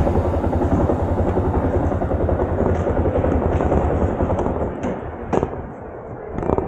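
Yamaha YS250 motorcycle on the move: engine and wind rumbling on the microphone, easing off about four and a half seconds in. A few sharp knocks follow near the end.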